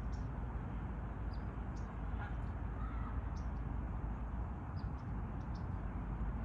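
Small birds chirping, short high peeps scattered irregularly, over a steady low background rumble.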